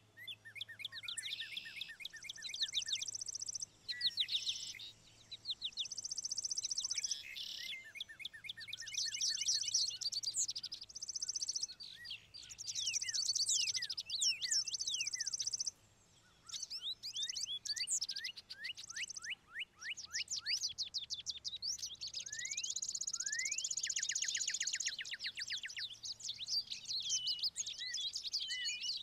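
Songbirds singing and calling, several at once: rapid chirping trills and quick falling whistles overlapping, with a long, fast trill late on.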